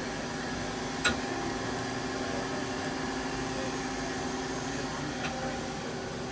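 Mazak Quick Turn 30 CNC lathe running with a steady machine hum, with one sharp click about a second in.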